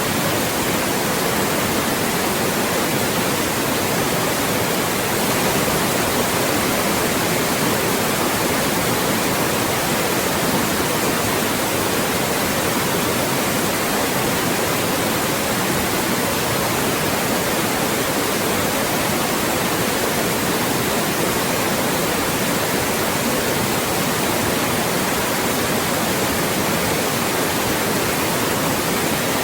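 Loud, steady white noise: an even hiss across the whole range with no change in level, made to mask speech.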